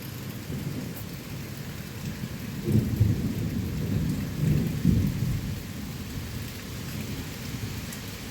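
Heavy rain pouring down steadily, with low rumbling swells of thunder between about three and five seconds in.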